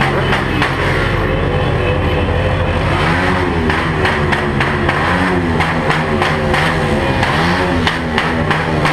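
Several motorcycle engines revving up and down again and again, their pitches overlapping.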